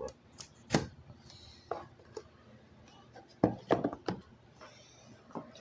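Things being handled and knocked about while someone rummages: a handful of short knocks and rattles, the loudest cluster about three and a half seconds in.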